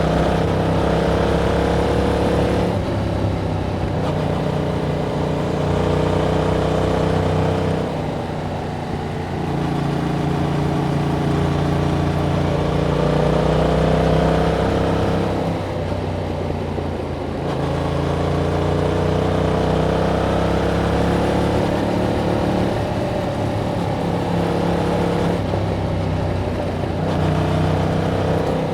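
A 2021 Yamaha MT-07's 689 cc parallel-twin engine through its stock exhaust, under way, its revs climbing and falling back several times.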